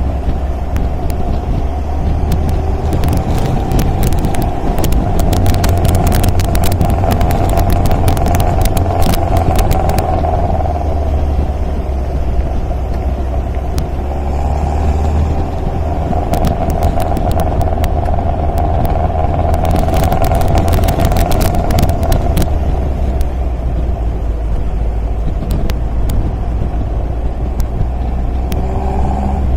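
MGA roadster's four-cylinder engine running steadily on the road, its note swelling and easing slightly. Two spells of sharp crackling clicks come through, a few seconds in and again past the middle.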